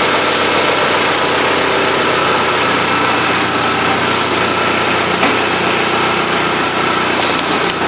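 Farm tractor engine running steadily, with a few light clicks near the end.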